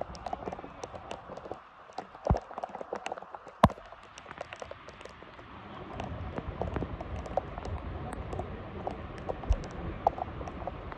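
Footfalls of players running on a wet pitch in the rain, a stream of small patters and clicks, with two loud sharp knocks about two and three and a half seconds in and a low rumble building in the second half.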